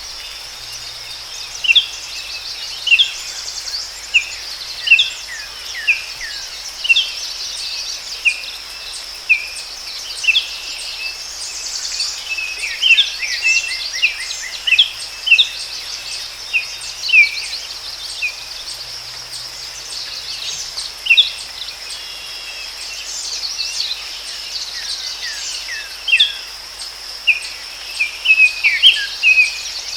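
Forest ambience: birds giving short, sharp chirps about once a second, with a busier flurry of calls in the middle and again near the end, over a steady high-pitched insect drone.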